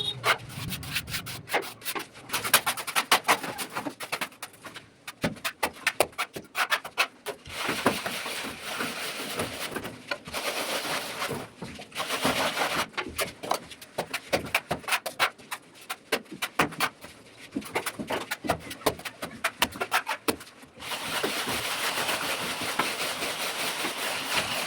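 Plastering trowel working wet plaster: many quick scrapes, with a few stretches of steady rubbing strokes lasting a few seconds each.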